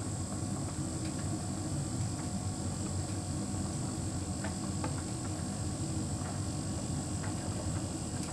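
Hotpoint heat pump tumble dryer running: a steady hum and rumble of the turning drum, with a few faint light ticks now and then.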